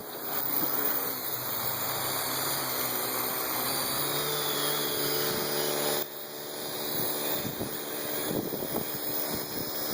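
Parrot AR Drone 2.0 quadcopter's rotors buzzing steadily as it comes down to land. The sound grows louder over the first second and dips sharply about six seconds in before building again.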